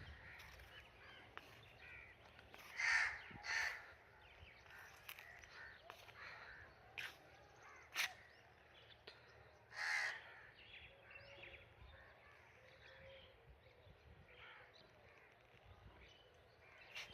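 Crow cawing: two caws in quick succession about three seconds in and a third about ten seconds in, with a couple of sharp clicks between them over a faint outdoor background.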